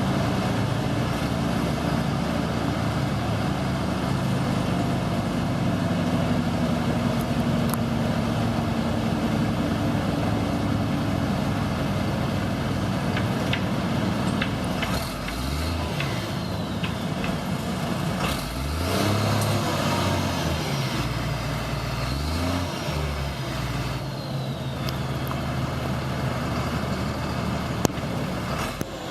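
An engine running steadily, then revving up and down several times in the middle.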